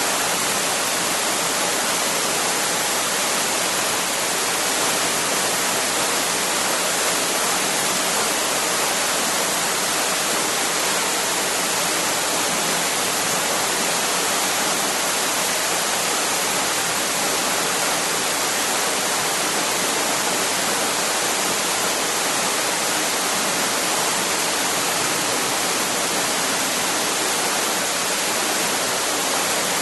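Waterfall: water falling and rushing in a steady, unbroken roar of noise, strongest in the upper range.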